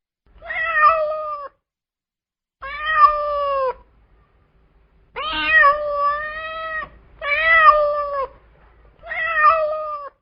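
Domestic cat meowing five times, each meow about a second long with a short silence between them; the third meow is longer, nearly two seconds.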